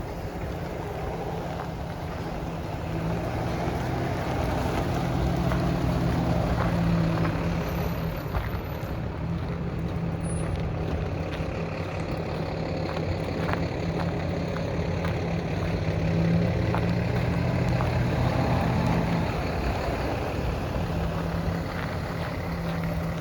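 A 2008 Chevrolet Silverado 1500 pickup's engine running steadily, swelling slightly in level now and then.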